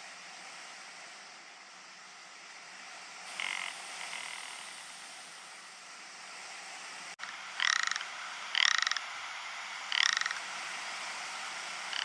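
Ptarmigan giving short rattling calls: one faint call a third of the way in, then three louder ones about a second apart in the second half, over a steady hiss.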